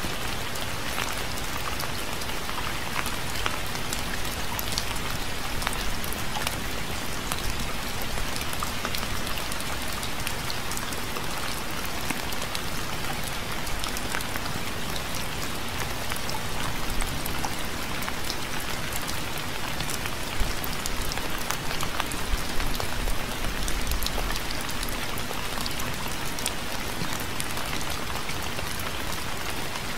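Steady rain falling, with many individual drops ticking distinctly over an even hiss. A faint low rumble swells briefly about three quarters of the way through.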